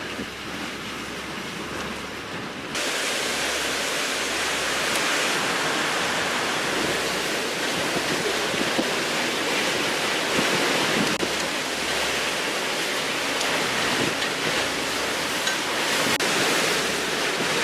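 Hurricane wind and rain: a steady, dense rushing noise with no distinct events, stepping up louder about three seconds in.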